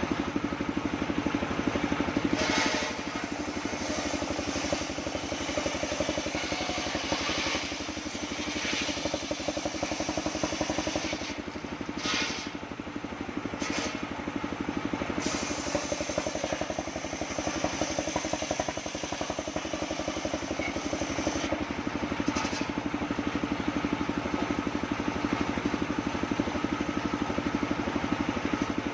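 Engine of a homemade circular sawmill rig running steadily, with a fast even firing rhythm.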